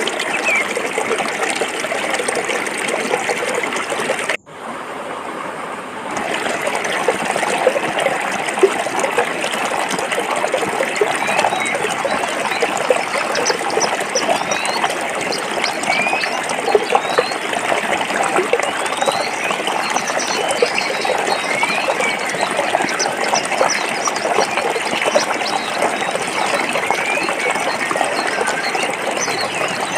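Forest stream flowing over rocks, a steady bubbling, splashing rush of water. About four seconds in it drops away suddenly, stays quieter for a second or two, then comes back at full strength.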